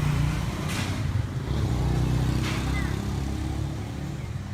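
A motor vehicle's engine running with a steady low hum that slowly grows quieter, with a couple of brief rustles.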